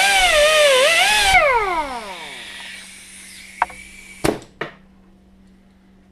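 Electric grinder working on a steel hammer head, its whine dipping and wavering under load, then switched off about a second in and spinning down with a falling pitch over about a second. Three sharp knocks of metal follow near the middle over a faint steady hum.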